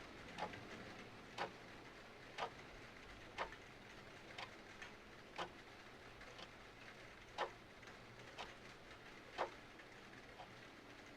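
Clock ticking about once a second, some ticks louder than others, over a faint steady hiss of rain.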